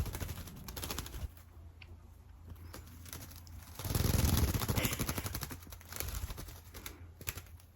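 Pet bird bathing in a ceramic pie dish of water: rapid fluttering and splashing with quick tapping, loudest about four seconds in.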